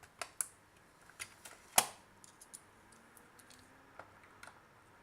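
Scattered small clicks and taps as a screwdriver is handled and fitted to a screw in a plastic multimeter case, with one sharper click a little under two seconds in.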